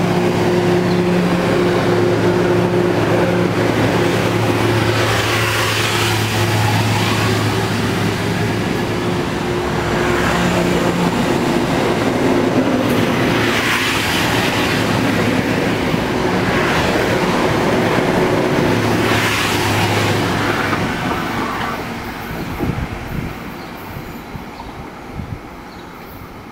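Budd M-3A electric multiple-unit commuter train running out of the station past the platform: a steady motor hum under rushing wheel-and-rail noise that swells every few seconds as the cars go by. About 21 s in it fades as the train draws away, with a few fading clicks of wheels over the rails.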